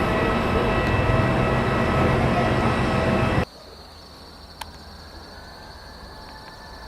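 Jet airliner engines running loud, with steady whining tones over the roar. The sound cuts off abruptly a little over three seconds in, leaving a much quieter background with a faint high whine and a single click.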